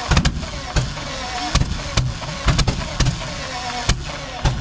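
Rolls-Royce Meteor V12 engine coughing with sharp, irregular single firing pops, roughly two a second, as it tries to catch but does not run; the crew think they have flooded it.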